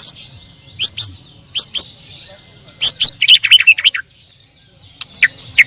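White-rumped shamas (murai batu) singing: loud, sharp whistled notes in short phrases, with a quick run of notes around three seconds in.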